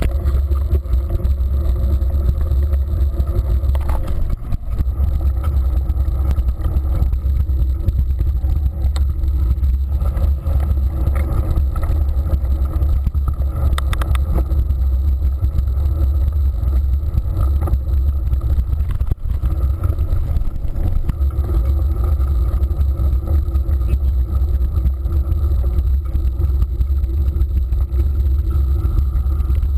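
Steady low wind rumble buffeting the microphone of a camera carried along on a moving mountain bike.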